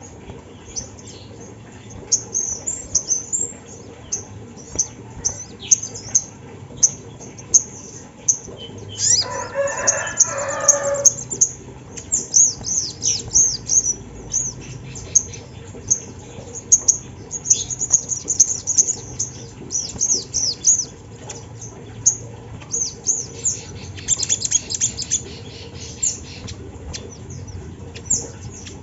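Ruby-cheeked sunbird (sogon) calling: a rapid run of thin, high chirps and short trills, repeated over and over. A lower call lasting about two seconds, a little under ten seconds in, stands out under the chirping.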